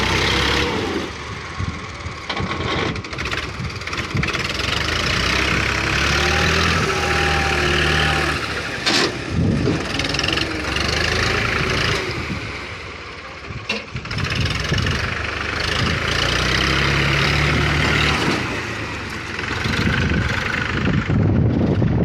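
Mahindra 275 DI tractor's diesel engine running under load, its speed rising and falling.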